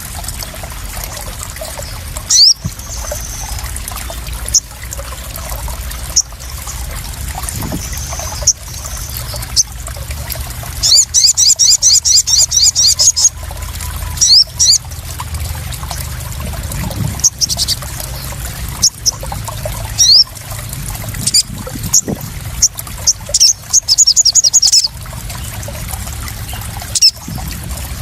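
Crimson sunbird (sogon) calls over trickling, splashing water. The birds give two rapid high chirping trills of about two seconds each, with single sharp chirps scattered between them. This is a lure and therapy sound meant to draw and calm sogon birds.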